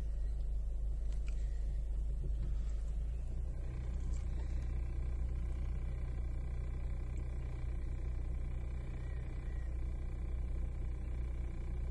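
Low, steady rumble of a car idling, heard from inside its cabin. About three and a half seconds in, a faint high steady whine joins it.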